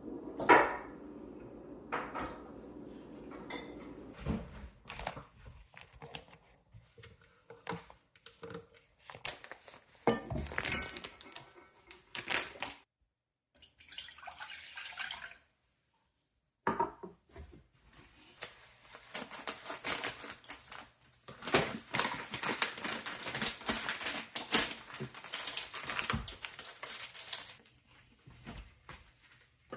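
Dishes, pots and cutlery clinking and clattering in scattered knocks. In the second half there is a longer run of dense clatter over a steady rushing noise.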